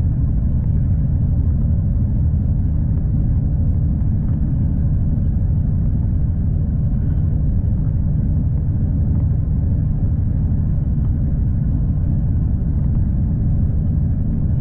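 V/Line passenger train in motion, heard as a steady low rumble of wheels and running gear on the track.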